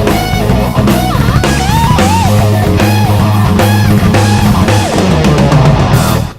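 Rock band recording: guitar playing bending, sliding notes over a drum kit and bass, with a final crash, then the music stops abruptly as the song ends.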